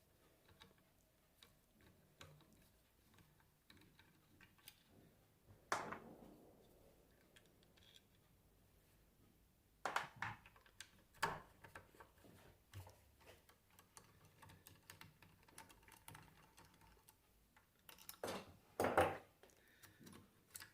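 Scattered small clicks, with a few sharper knocks about 6, 10, 11 and 18–19 seconds in, from tools and metal parts being handled as the voltage regulator is unbolted from an alternator.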